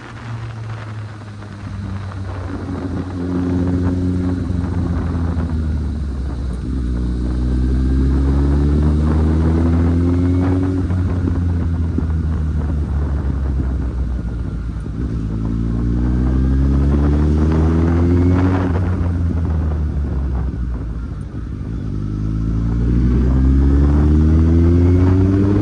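Kawasaki Z800's inline-four engine pulling the motorcycle up through the gears. The pitch rises steadily, drops at each upshift, and climbs again several times.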